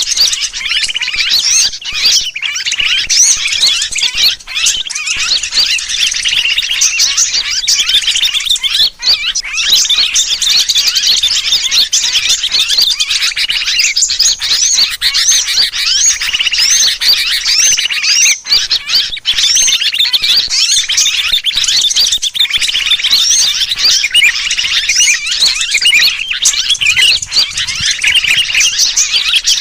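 Bird-trapping lure recording: a dense, nonstop chatter of many small birds mixed with the distress calls of a trapped sooty-headed bulbul. Rapid high chirps and short whistled glides pile on one another with no pause.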